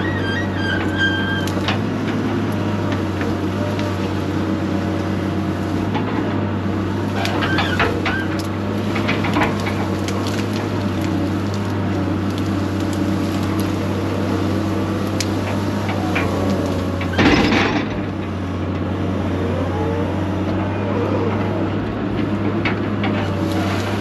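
Engine of a heavy land-clearing machine running steadily under load, with scattered cracks and snaps of brush and pine being pushed. There is one loud crash about seventeen seconds in.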